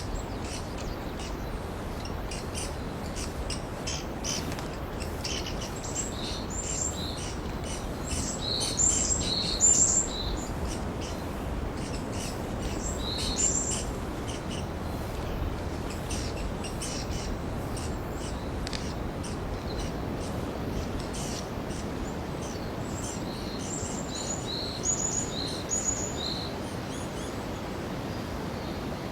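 Varied tits calling as they flit between trees: many short, high chirps throughout, with two bouts of clearer whistled notes, one in the first half and one near the end, over a steady forest background hiss.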